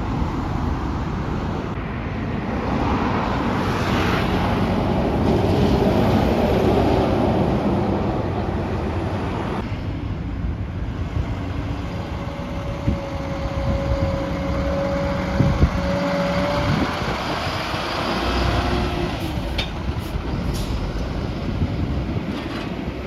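Heavy trucks running on a road: steady engine and tyre noise, changing abruptly about ten seconds in. A steady high whine rides over the engine hum for several seconds midway.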